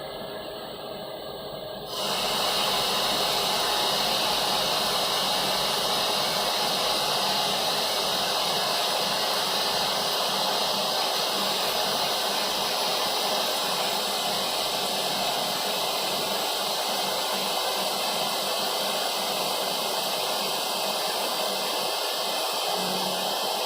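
TCK40P slant-bed CNC lathe running, giving a steady hiss that steps up louder about two seconds in and then holds.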